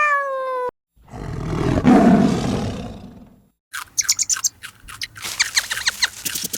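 The tail of a cat's meow, then a loud animal roar lasting about two and a half seconds, then a rapid series of high, sharp chattering calls from another animal.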